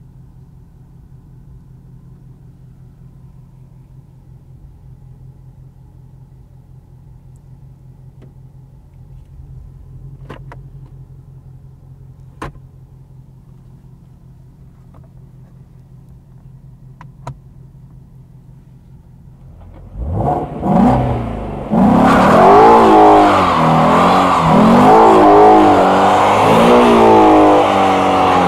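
2016 Ford Mustang Shelby GT350's 5.2-litre flat-plane-crank V8 idling steadily, heard from inside the cabin, with a few sharp clicks. About twenty seconds in, the engine revs hard, its pitch rising and falling again and again, over the loud hiss of the rear tyres spinning in a smoky burnout.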